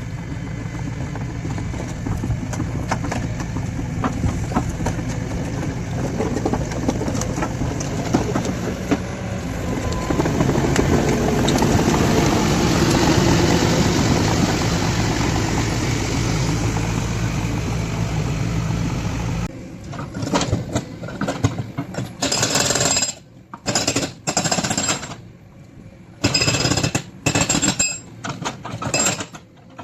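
Hydraulic breaker on a JCB excavator hammering continuously, rapid blows over the steady engine. About two-thirds of the way through it breaks off abruptly into short, irregular bursts of sharp metallic clatter with gaps between them.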